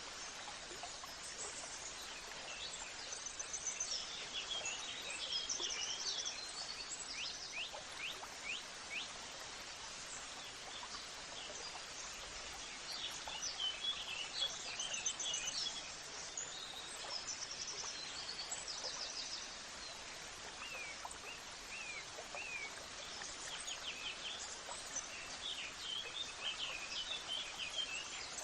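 Several birds chirping and trilling in short, repeated phrases over a steady, even background rush of outdoor noise.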